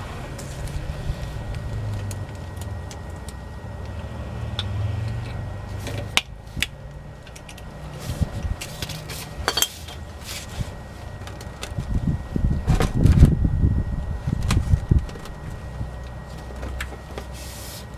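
Scattered metallic clinks and clicks of hand tools (wrench, spinner handle) being handled, over a low rumble, with a denser run of knocks about two-thirds of the way through.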